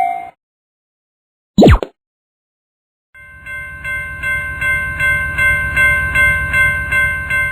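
A cartoon sound track: a sharp falling whistle-like glide about a second and a half in, then, after a pause, a train passing, with a steady high horn-like chord over a low rumble that pulses about three times a second and grows louder.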